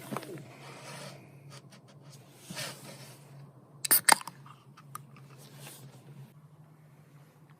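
Scattered scraping and light handling noises, with two sharp knocks close together about four seconds in, over a faint steady low hum.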